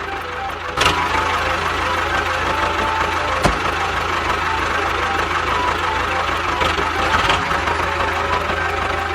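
Small motor of a DIY mini tractor model running steadily, growing louder about a second in, with one sharp click near the middle. A simple melody of background music plays along.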